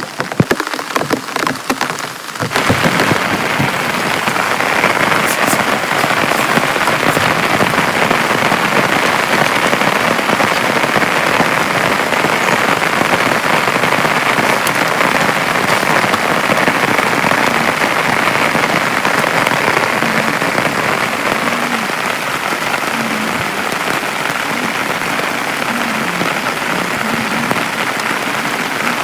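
Heavy rain. For the first couple of seconds separate drops patter, then it switches suddenly to a dense, steady downpour.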